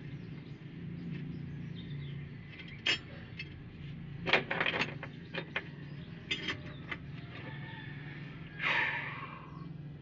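A few sharp clicks and knocks, with a short louder scrape or rustle near the end, over a steady low hum.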